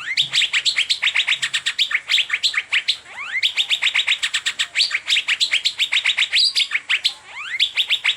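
Asian fairy-bluebird (cucak biru) singing in a continuous rapid run of short rising chirps, about eight to ten a second, broken by a few longer upward-sliding whistles.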